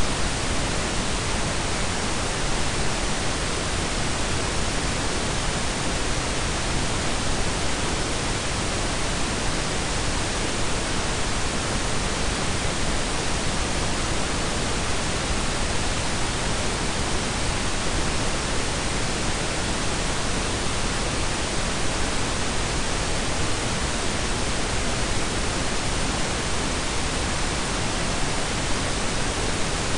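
Synthetic pink and brown noise blended together: a steady, unchanging hiss with a deep rumble beneath it.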